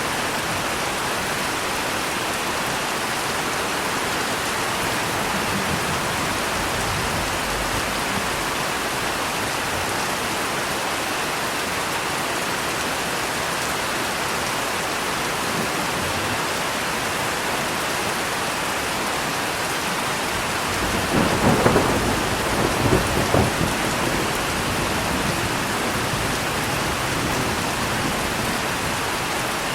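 Steady rain falling, with a roll of thunder rumbling over it about two-thirds of the way through.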